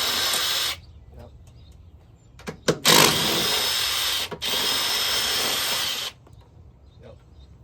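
A power tool spins in three runs, one ending under a second in and two back to back from about three to six seconds, with a few sharp clicks just before them. It is undoing the bolts of a car's factory strut bar in the engine bay.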